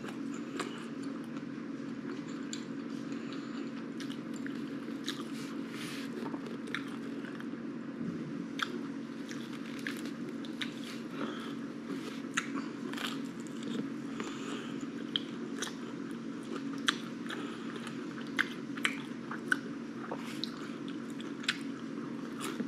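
Close-up chewing and biting of homemade mini pizza puff bites, wet mouth clicks scattered irregularly throughout. A steady low hum sits underneath.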